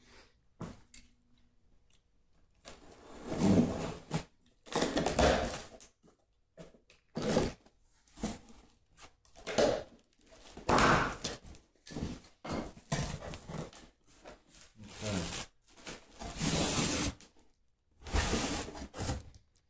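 Cardboard box being opened and unpacked: irregular bursts of tearing and rustling cardboard with a few thunks.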